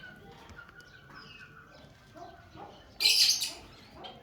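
Birds chirping faintly, with one loud, harsh, hissing burst about three seconds in that lasts around half a second.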